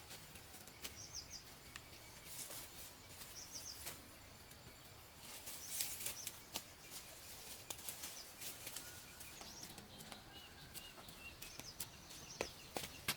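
Faint outdoor ambience: small birds chirping now and then, with scattered light clicks and rustles.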